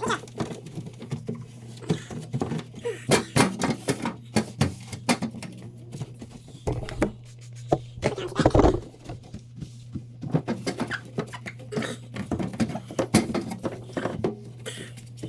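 Irregular knocks, clicks and rubbing as a plastic fridge drawer is handled and scrubbed clean, with a louder, longer rub a little past halfway, over a steady low hum.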